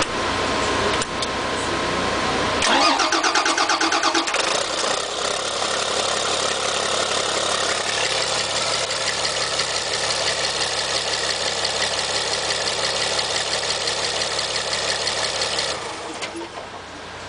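Bus engine, freshly fitted with a new cylinder head, cranking with a fast, even pulsing for about a second and a half, then catching and running steadily before it cuts off near the end.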